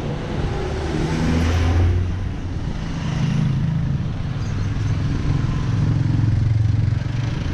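A motor vehicle engine running, its low note stepping up and down a few times, under steady wind and road noise on a helmet-mounted camera.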